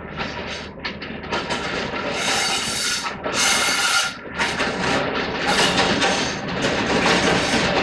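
A diesel-hauled passenger train approaching on the rails. Its noise grows steadily louder, with uneven hissing surges.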